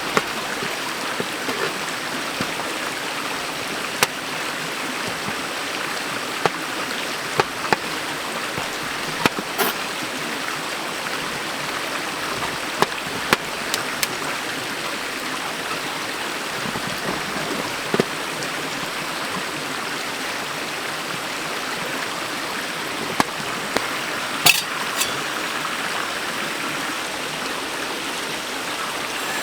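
Valley stream rushing steadily, with scattered small clicks and knocks over it.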